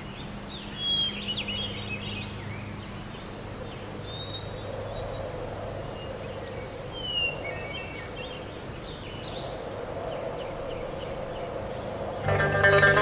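Small birds chirp now and then over a steady low hum of outdoor background. Music comes in near the end.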